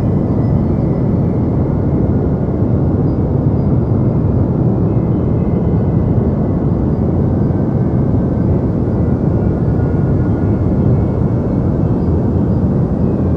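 Deep noise for sleep: a continuous, unchanging low rumbling hiss with most of its weight in the bass and little above the midrange.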